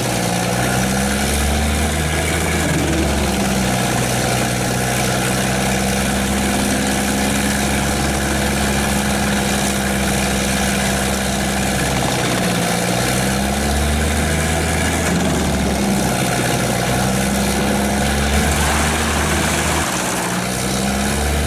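Tracked wood chipper running hard: a steady heavy diesel drone mixed with the noise of the drum chipping wood. The engine pitch sags and recovers briefly a few times as it takes load.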